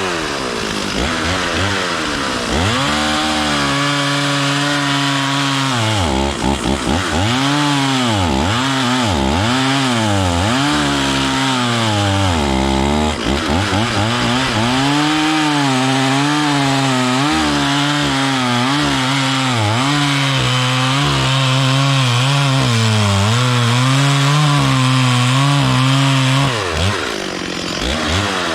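Stihl 440 two-stroke chainsaw cutting wood, its engine pitch repeatedly sagging under the load of the cut and picking back up. Near the end the pitch briefly drops and climbs again.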